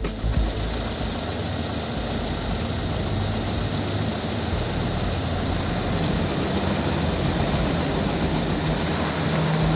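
Ford Focus 1.6 Duratec Rocam four-cylinder engine idling steadily.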